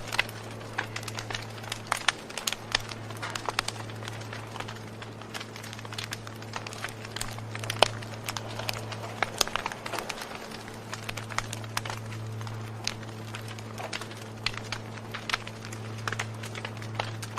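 Wood fire crackling, with irregular sharp pops and snaps several times a second, over a steady low hum.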